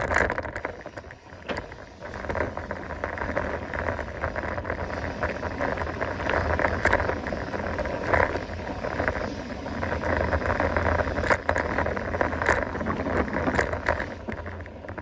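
Mountain bike being ridden over a trail: steady tyre and wind noise with frequent small knocks and rattles from the bike.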